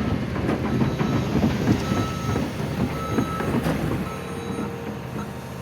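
Excavator working on the bank: steel clanking and rattling with brief short squeals, easing about four seconds in to a quieter, steady engine hum.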